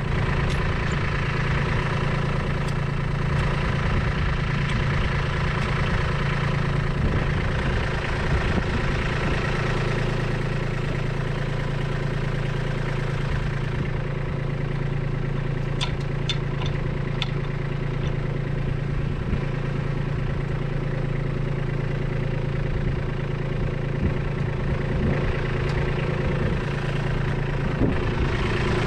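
Kubota B2601 compact tractor's three-cylinder diesel engine running steadily, with a few faint clicks about halfway through.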